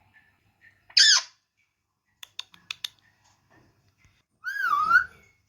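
A pet parrot squawks once with a sharp falling screech about a second in, then makes a short wavering call near the end. A few quick clicks come in between.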